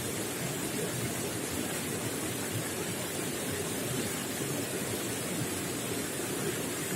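Running water gurgling steadily.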